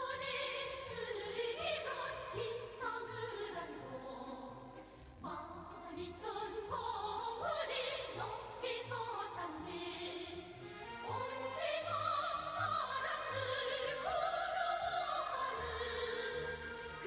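Operatic singing with vibrato over an orchestral accompaniment.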